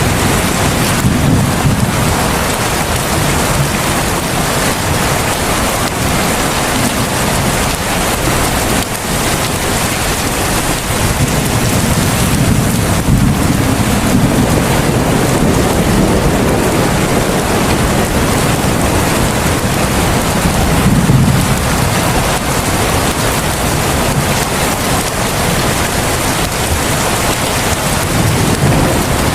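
Heavy rain falling as a steady, dense hiss, with a low rumble that swells and fades several times.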